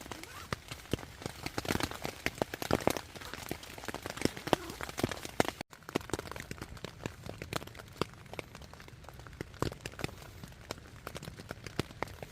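Rain on the tent fly: a dense, irregular patter of sharp drop taps over a steady hiss of rain.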